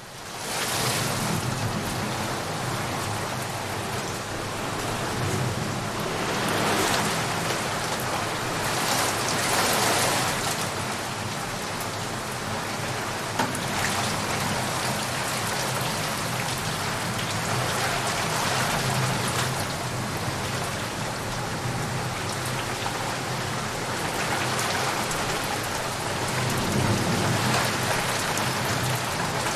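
Heavy rain falling steadily on leaves and puddles, fading in at the start and swelling several times, with low thunder rumbling underneath now and then.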